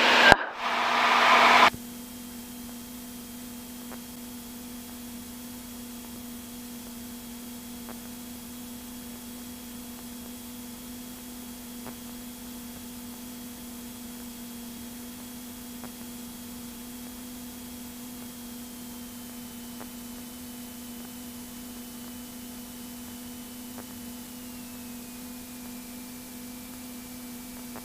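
Steady electrical hum and hiss on a Cessna 172's intercom audio, after a burst of radio hiss that cuts off about two seconds in. A faint high whine drops in pitch in two steps, around the middle and again near the end, in the way an alternator whine follows the engine being throttled back on final approach.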